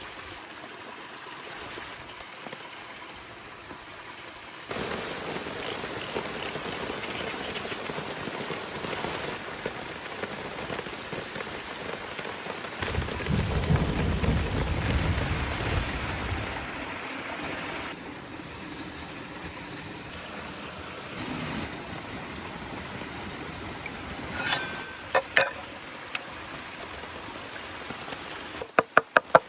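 Steady crackling hiss of a wood fire with chicken cooking in a tin can, heard in several edited shots. A low rumble comes in the middle, and a quick run of even knocks starts near the end.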